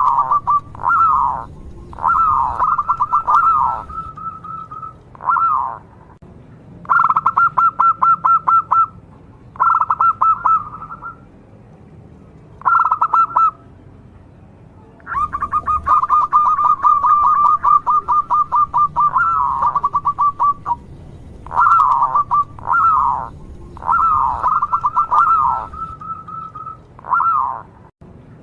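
A local-strain zebra dove (perkutut) singing in full voice. It gives repeated phrases of rapid staccato coos and rolling trills at a steady pitch, with short pauses between them, and one long unbroken roll of about five seconds just past the middle.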